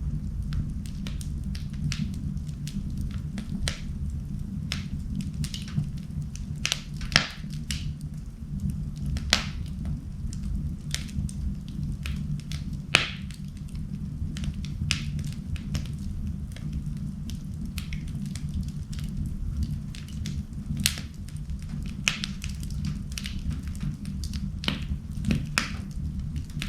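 Wood fire burning in a fireplace: a steady low rumble with frequent crackling and a few louder, sharp pops.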